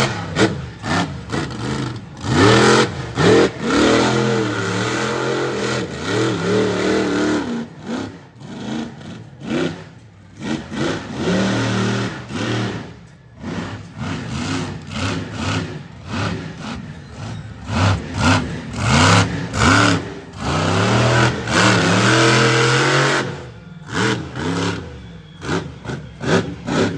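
Monster truck engine revving hard and easing off again and again, its pitch sweeping up and down.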